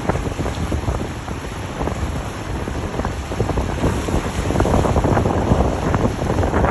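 Wind buffeting the microphone over the rumble of passing boats and churning water, uneven and gusty, growing a little louder toward the end.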